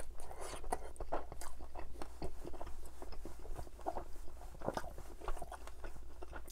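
Close-up biting and chewing of crisp-roasted chicken drumsticks in butter chicken sauce: irregular wet mouth clicks and crunches of the skin, with a fresh bite near the end.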